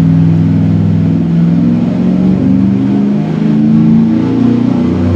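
Engine running at wide-open throttle on a dynamometer pull, carbureted by a Holley 750 double-pumper four-barrel, loud and sustained.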